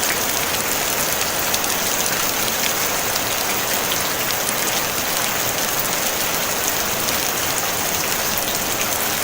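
Steady rain falling on a tin roof: an even hiss dotted with many small ticks of individual drops striking the metal, with no thunder.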